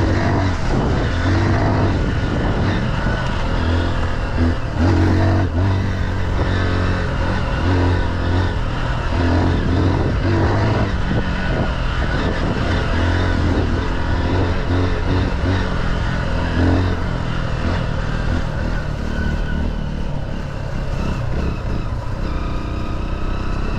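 Single-cylinder engine of an off-road vehicle running under way on a trail, its note rising and falling with the throttle; it eases off in the last few seconds.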